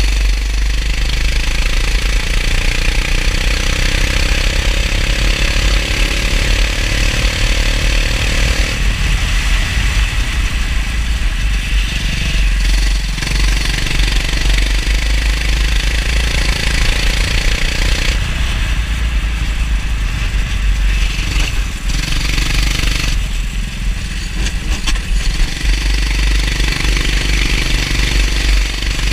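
Go-kart engine running hard, its pitch climbing steadily as it accelerates and then falling away sharply as the throttle is lifted, several times over, as for corners.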